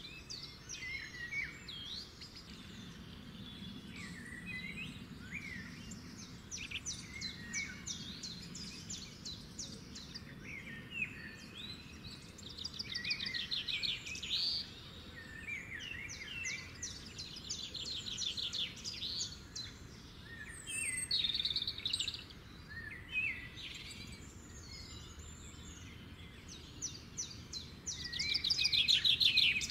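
Several birds chirping and singing, with fast trills of rapidly repeated notes several times; the loudest trill comes near the end.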